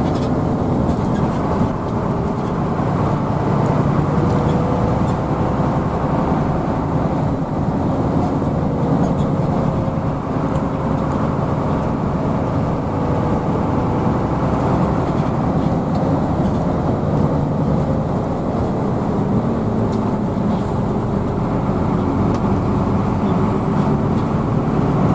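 Hino AK bus under way, heard from inside the cabin: a steady, unbroken drone of engine and road noise.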